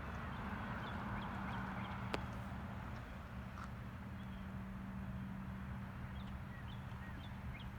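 Outdoor waterside ambience: a steady low hum and soft hiss, with faint short bird chirps scattered throughout and a single click about two seconds in.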